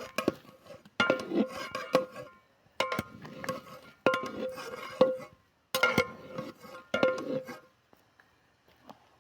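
Metal utensils clanking against large metal cooking pots in several short bursts of sharp, ringing clangs, quiet for the last second or so.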